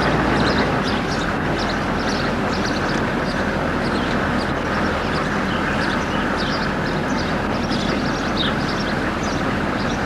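A vehicle driving, with steady engine and road noise. Many short high chirps sound over it throughout.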